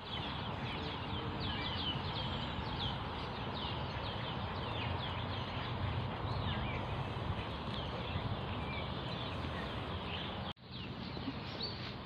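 Birds chirping: many quick, high, downward-sweeping chirps repeating over a steady outdoor background noise, cut off for a moment near the end.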